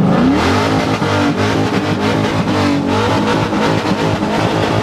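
Silver Scion's engine and exhaust being revved hard, the pitch climbing and dropping several times.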